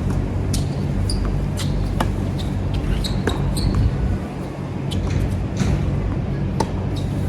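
Tennis balls being struck and bouncing on a hard court, sharp knocks about once a second, with a few short high squeaks, over a steady low rumble.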